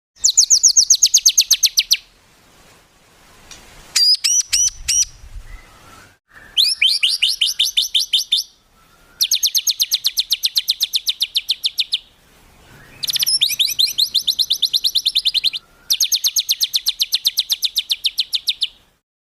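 Songbird singing rapid runs of repeated sharp, high notes, about ten a second, each run lasting two to three seconds with short pauses between; the fast, tight 'tembakan' phrases used to train other songbirds.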